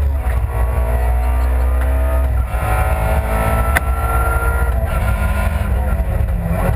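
Honda Civic Type-R Group N rally car's four-cylinder engine heard from inside the cabin, running hard under load with a heavy low rumble. Its pitch holds and sags, changes about two and a half seconds in, then climbs steadily; a single sharp click sounds just before the middle.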